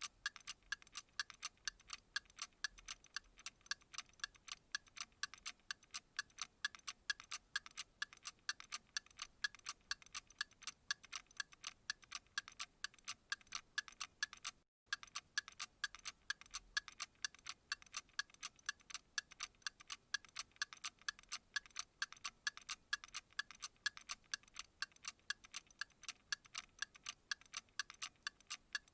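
Clock ticking in a rapid, even rhythm of sharp, light ticks, with a split-second dropout about halfway through.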